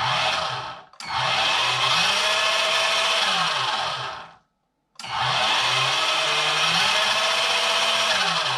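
Hua Peng King Hauler 1:14 RC semi truck's electric drive motor and gearbox whining under throttle, in three runs: a short one, then two of three to four seconds each, rising in pitch as the throttle opens and falling as it is eased off, showing proportional speed control.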